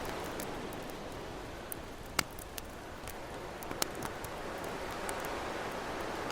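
Campfire crackling, with scattered sharp pops, the loudest about two seconds in, over the steady wash of ocean waves.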